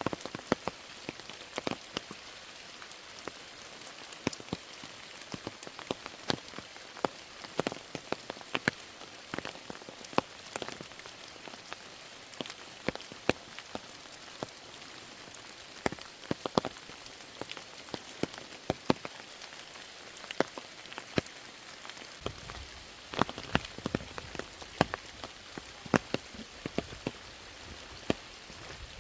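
Steady rain falling, with frequent sharp, loud individual drops striking close by over the constant patter. A low rumble joins about three-quarters of the way through.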